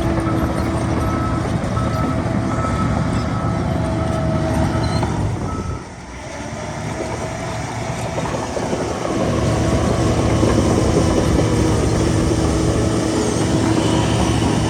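Heavy earthmoving machine's diesel engine running, with a reversing alarm beeping in a steady repeated pattern, the sign of the machine backing up. The beeping stops about five seconds in. The sound drops away around six seconds in, then builds back to full by about nine seconds.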